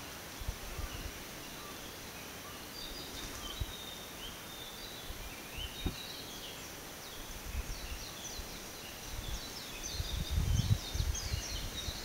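Small birds chirping, with many short, high calls that get busier a few seconds in, over a steady faint hiss. Low rumbling bursts near the end are the loudest sound.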